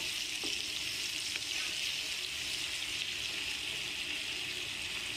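Sliced onions and tomatoes sizzling in hot oil in a frying pan, a steady frying hiss, while a wooden spoon stirs through them with a couple of faint ticks.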